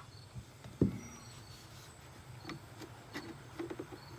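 One dull thump about a second in, then a string of light clicks and knocks as the parts of a commercial vacuum's casing are handled and worked at.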